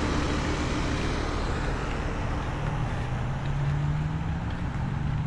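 Several Payne heat pump outdoor units running in cooling mode: a steady compressor hum with the rush of their condenser fans.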